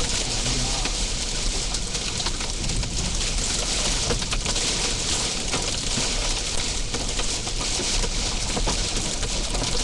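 Heavy rain and hail pelting the vehicle in high wind: a dense, steady hiss peppered with sharp ticks of hailstones striking.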